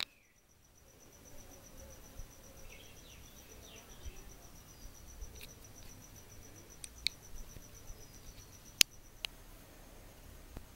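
An insect trilling: a steady, evenly pulsed high-pitched trill. A few sharp clicks stand out over it, the loudest about nine seconds in.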